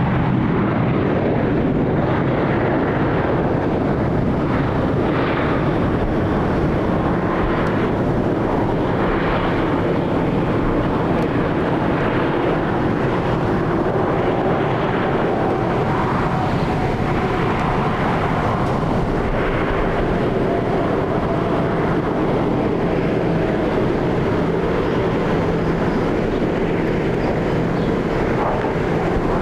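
Jet airliner engines running steadily at high power, with a faint whining tone that falls slowly in pitch midway through.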